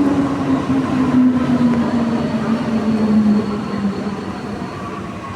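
Santiago Metro NS-93 train running inside the car, its motor whine falling steadily in pitch as the train slows and stops at a station. The running noise dies away along with it.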